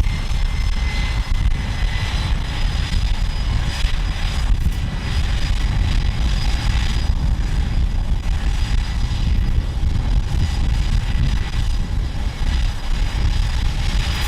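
Jet aircraft engines running on an aircraft carrier's flight deck: a loud, steady rush with a faint high whine over it.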